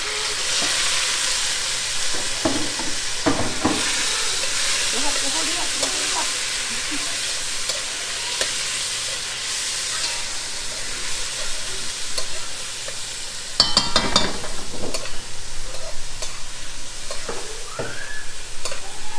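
Sausage frying in oil in a pot, sizzling steadily, with a spoon scraping and stirring in the pot; a louder bout of stirring and clatter comes about fourteen seconds in.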